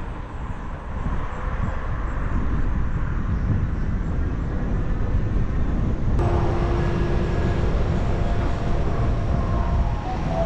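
Wind rushing and buffeting over the microphone of a camera on a moving bicycle, a dense low rumble. About six seconds in, a faint steady hum joins it.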